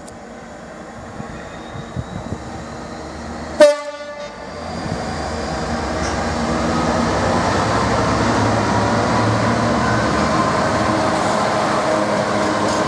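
A train approaching, sounding one short, loud horn blast a little under four seconds in. It grows steadily louder and then stays loud with a dense rumble as it runs through.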